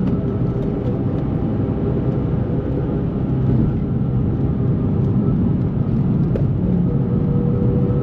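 2004 Nissan 350Z's 3.5-litre V6, fitted with a Z1 dual exhaust and Z1 intake, running at a steady speed as heard inside the cabin, with road noise underneath. The engine note holds a constant pitch, with no revving.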